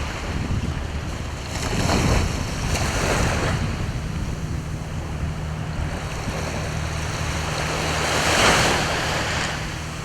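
Sea waves washing onto the shore, swelling about two seconds in and again about eight seconds in, over a steady low hum.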